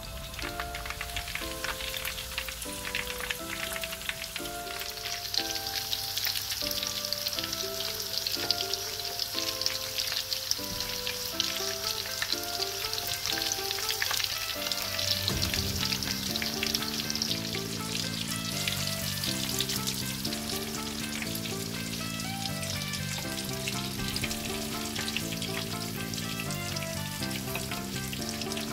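Breadcrumb-coated prawns deep-frying in a pan of hot oil: a steady crackling sizzle. Light background music plays over it.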